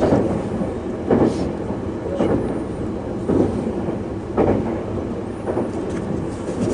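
Steady low rumble of a moving train heard from inside the carriage, with a soft thump about once a second.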